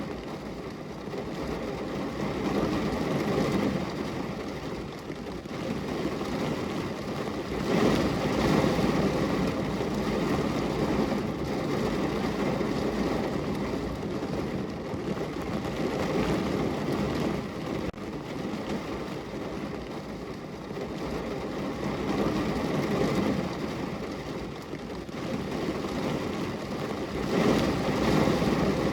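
Heavy rain falling on a car's roof and windows, heard from inside the car: a dense, steady wash that swells louder about eight seconds in and again near the end.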